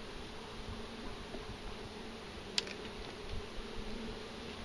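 Italian honeybees buzzing around an open hive, a steady hum of many wings. A single sharp click about two and a half seconds in.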